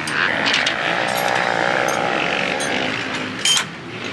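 Dirt bike engines running at a motocross track, with a wavering engine note in the middle, a few short clicks and a brief loud sound about three and a half seconds in.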